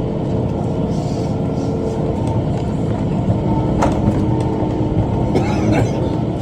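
Tractor engine running at a steady speed while pulling a rotary cutter (bush hog) through brush, with a single sharp tick about four seconds in.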